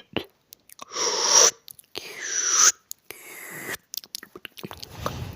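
Close-miked ASMR mouth sounds: quick wet clicks and smacks, then three long breathy rushes of air of about half a second each, then more clicks.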